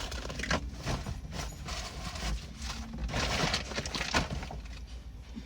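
Rustling and irregular clicks and knocks of a car seat cover being tugged and worked into place over the seat.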